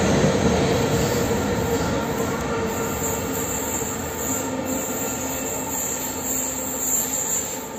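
City Airport Train running out of an underground station into the tunnel: wheels and running gear rumbling with a steady whine, the sound gradually fading as the train moves away.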